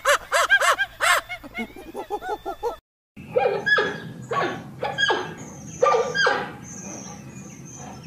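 Animal calls in two parts. First comes a quick run of high, arched calls for about three seconds. After a brief silence, a series of short calls that fall in pitch, like barks, comes over a rough background.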